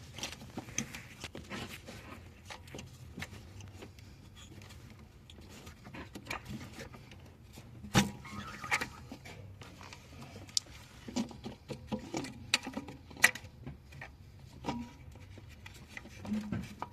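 Scattered clicks and light metallic knocks of hand tools and engine parts being handled, over a faint steady low hum. The sharpest knocks come about eight seconds in and about thirteen seconds in.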